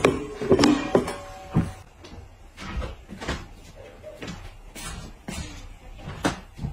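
A stainless steel bowl set down upside down on a wooden table with a knock and a brief ring. Then a series of soft footfalls, slippers on a wooden floor, a step every half second or so.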